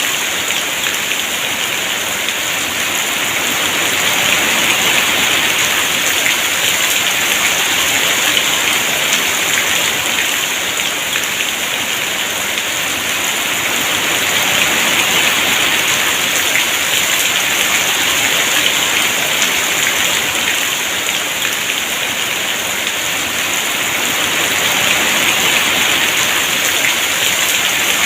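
Heavy rain falling steadily as a dense, even hiss of many drops, swelling and easing slightly a few times.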